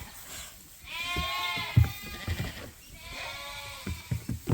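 Lambs bleating: two long, wavering bleats, one about a second in and another about three seconds in, with a few soft knocks underneath.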